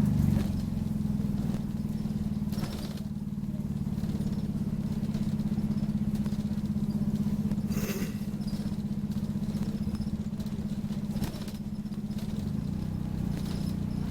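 Optare Solo bus's diesel engine running steadily with an even low hum, heard from inside the bus, with a few brief clatters about 3, 8 and 11 seconds in.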